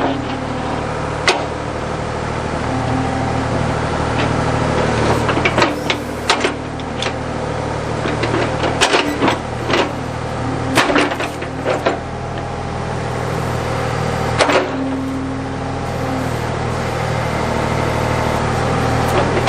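Backhoe engine running steadily under hydraulic load while the bucket works at a stump, with scattered knocks and cracks from the bucket and wood.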